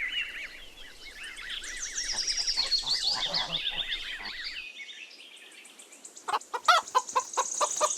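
Goslings peeping, many high chirps overlapping, for about four and a half seconds. After a short lull, hens begin clucking in quick, rhythmic pulses near the end.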